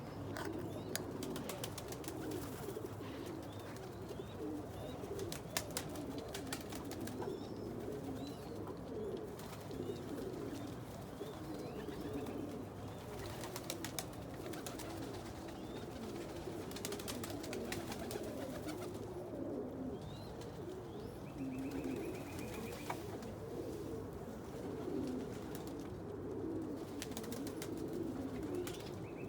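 A flock of domestic pigeons cooing together in a loft, many overlapping low coos without a break, with scattered sharp clicks.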